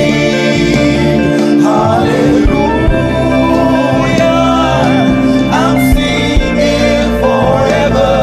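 Gospel music: held keyboard-like chords over a low drum, with a voice singing phrases that come and go.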